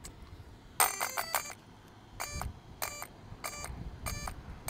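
Series of short electronic beeps from the RC truck's speed controller: a quick run of three about a second in, then single beeps about every 0.6 seconds, typical of the ESC's power-up and status tones.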